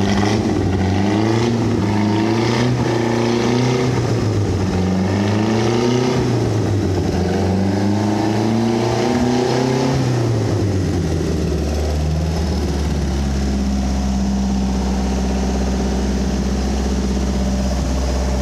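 Mercruiser 140 hp Chevrolet four-cylinder marine engine running on a test stand, revved up and down several times, then dropping back to a steady idle about eleven seconds in. It revs freely and responds quickly to the throttle, the sign of a good-running engine.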